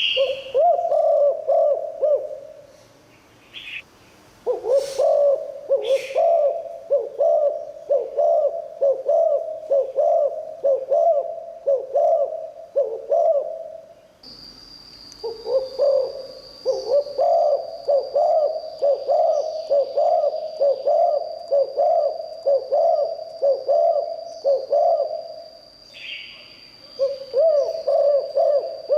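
Spotted dove cooing in long runs of repeated low coos, each run lasting several seconds with short pauses between. A few brief higher chirps sound now and then, and a steady high whine sets in about halfway.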